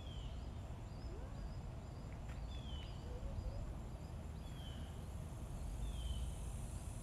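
A bird calling outdoors: about four short, falling whistled notes a second and a half to two and a half seconds apart, with fainter high chirps between, over a steady low rumble of outdoor background noise.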